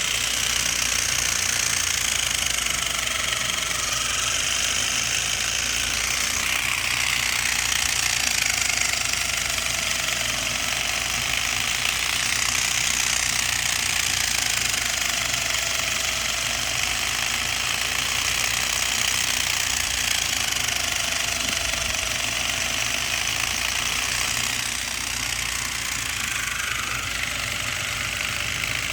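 A small homemade two-cylinder engine running with a rapid, steady rattle, its pitch drifting slowly up and down.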